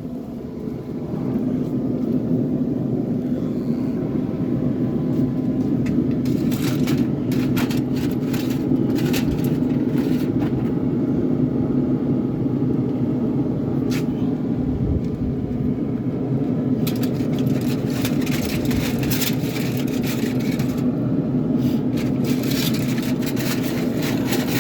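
A steady low hum of a running engine or motor. Over it come scattered metal clicks and scrapes as the smoker is worked open.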